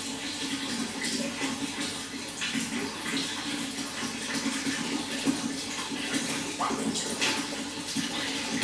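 Running water: a steady flow with frequent small, irregular splashes.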